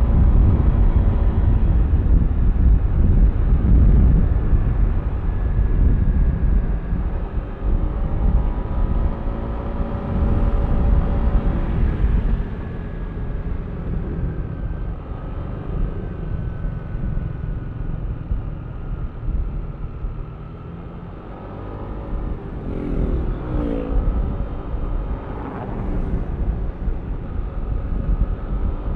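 Yamaha Aerox V3 scooter's 155 cc single-cylinder engine running on the road, louder for the first dozen seconds, then easing off and revving up again about two thirds of the way through.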